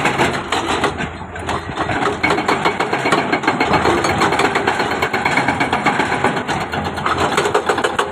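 Diesel engine of heavy construction machinery running, with a dense fast rattle and a brief dip in level about a second in.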